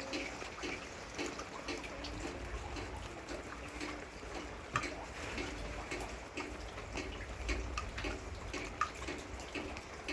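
Water running and splashing, with small clicks and knocks mixed in.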